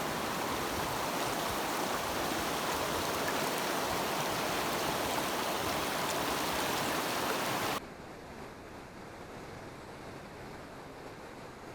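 Mountain stream rushing, a steady hiss of flowing water; about eight seconds in it cuts off abruptly to a much quieter, duller steady noise.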